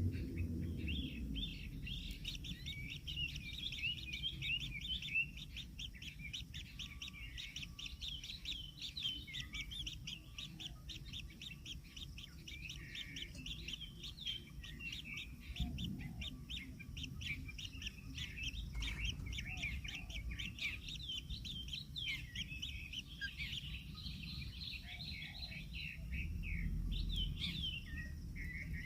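Kingfisher chicks chirping nonstop, a dense stream of short, rapid high calls, over a low rumble.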